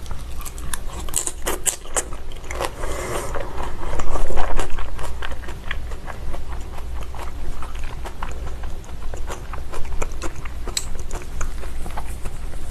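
Close-miked chewing of raw salmon sashimi: soft wet mouth sounds with small smacks and clicks, and a louder stretch of chewing about three to four seconds in.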